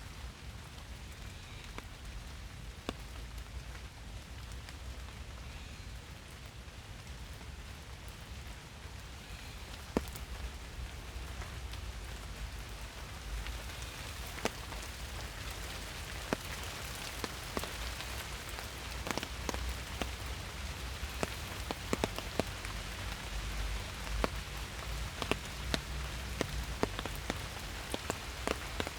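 Rain falling in a forest: a steady soft hiss with scattered sharper drops striking close by, growing more frequent about halfway through.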